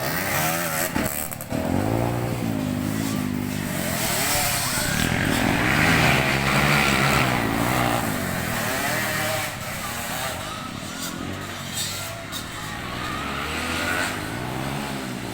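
Motocross dirt bike engines racing, their pitch rising and falling over and over as the riders rev up and shift through the gears; several bikes are heard overlapping.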